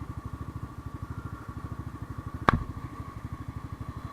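Motorcycle engine idling steadily while stopped, a rapid even low putter, heard through an action camera's built-in mic. One sharp click about two and a half seconds in.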